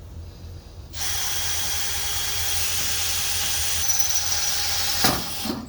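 Power drill starting about a second in and boring a pilot hole through the sheet-metal wall of a steel building, running steadily with a high whine, briefly louder near the end.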